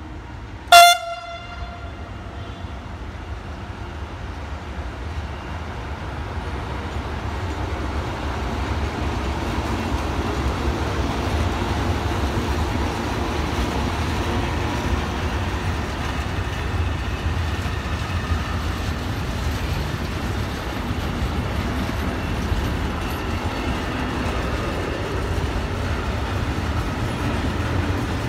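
Horn of an FS E.652 electric locomotive hauling a freight train: one short, loud blast about a second in, given as a greeting. Then the container train passes close by, its wagons rumbling steadily and growing louder over the first several seconds.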